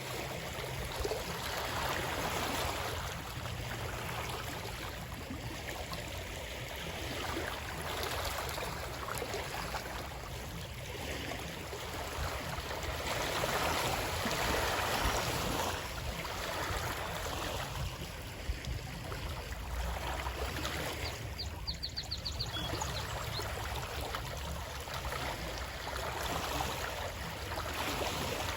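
Running water of a stream: a steady rush of flowing water that swells and eases gently.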